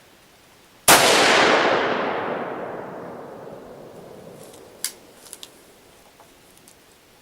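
A single rifle shot from an AR-15 chambered in 5.56 NATO, a sharp crack about a second in followed by a long echo that fades over about three seconds. A few light clicks follow a few seconds later.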